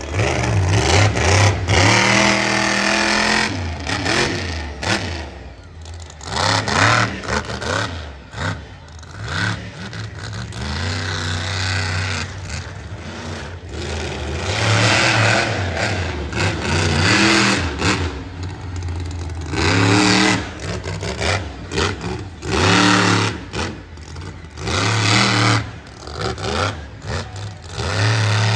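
Scarlet Bandit monster truck's supercharged V8 revving hard during a freestyle run. The engine repeatedly climbs in pitch and drops back off the throttle, again and again.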